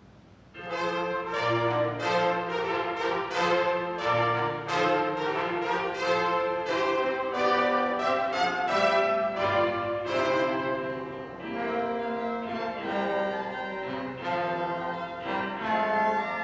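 Sunday school orchestra playing, with brass and bowed strings. The music comes in after a brief pause about half a second in, with a steady run of separate notes.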